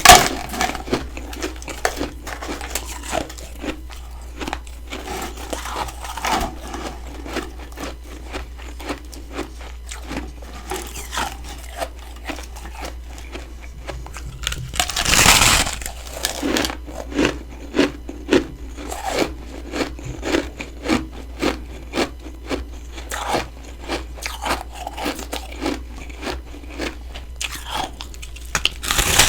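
Freezer frost being bitten and chewed close to the microphone: a run of short, crisp crunches, with one longer, louder crunch about halfway through.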